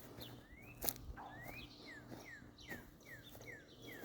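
A songbird faintly calling a run of short chirps. A couple of rising notes come first, then a string of quick falling ones, about three a second. A couple of sharp clicks sound in between.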